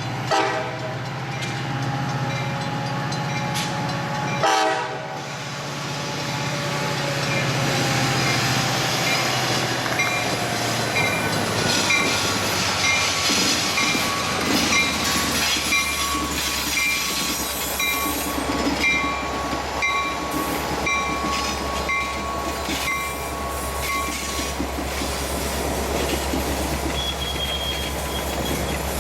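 Metra commuter train passing: its horn sounds over the first few seconds, falling slightly in pitch, then the train rolls by with a deep steady rumble and wheel noise. A short ringing tone repeats about twice a second through the middle stretch.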